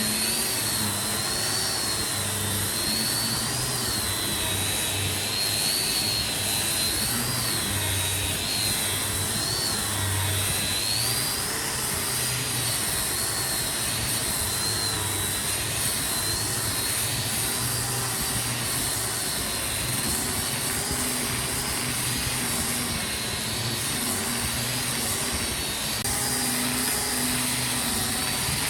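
Handheld electric power tool running steadily. Its motor gives a high whine that wavers slightly up and down over a low hum.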